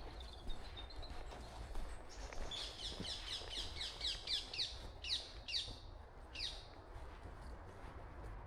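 A small songbird singing a quick run of short, downward-sweeping high notes that spaces out and ends about two-thirds of the way through, over a low steady rumble.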